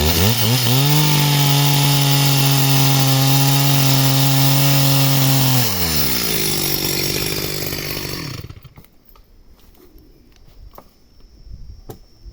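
Chainsaw revving up and cutting wood at a steady high pitch, then the throttle is let off about six seconds in and the engine falls away; the sound cuts off near eight and a half seconds, leaving a few faint clicks.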